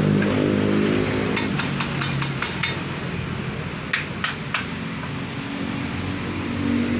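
A passing vehicle's engine hum fades out in the first second, then sharp clicks and taps from hand tools working on the motorcycle's air filter housing: a quick run of about six, then three more a couple of seconds later.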